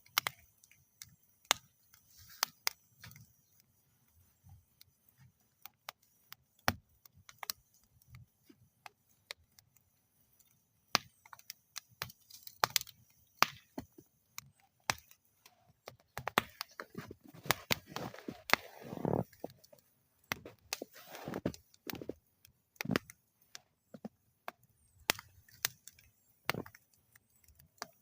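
Wood fire burning in a metal fire bowl, crackling and popping in irregular sharp snaps, busiest a little past the middle with a soft rush of flame under the pops.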